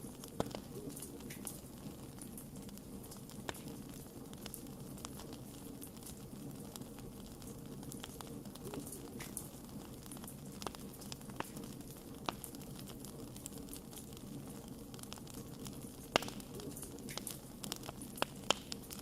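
Wood fire crackling: scattered sharp pops and snaps over a steady low background, with a few louder pops in the last few seconds.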